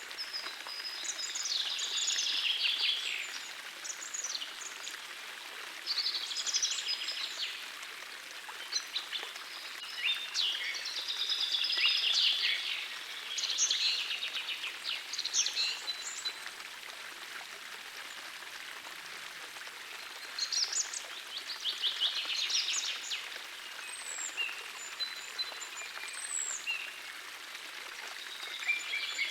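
Songbirds singing short, rapid phrases every few seconds, with a lull of a few seconds around the middle, over the steady rush of a gentle forest stream.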